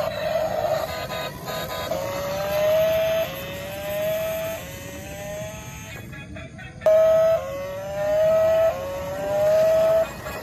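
Electronic toy-vehicle sound effect: a repeated engine-revving tone that rises in pitch for about a second, drops back and rises again, about six times, with a brief break partway through.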